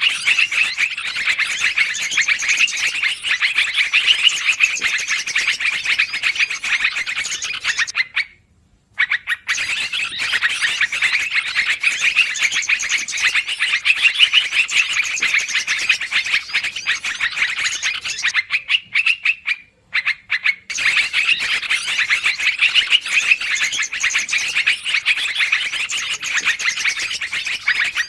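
Yellow-vented bulbul (trucukan) calling in a dense, noisy chatter of rapid notes. The calls come in long bouts, broken by two short pauses.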